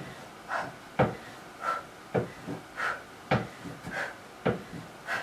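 Regular thumps about once a second from decline knee tucks on a workout box, each followed about half a second later by a sharp, breathy exhale.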